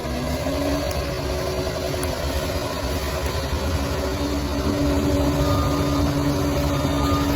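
Bulldozer's diesel engine running steadily, its pitch and level rising a little about four and a half seconds in.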